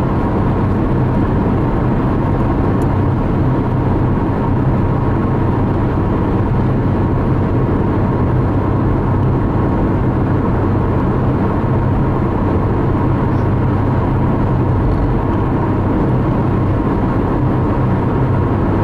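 Car driving at steady highway speed, heard from inside the cabin: a constant low drone of engine and tyre noise that does not change.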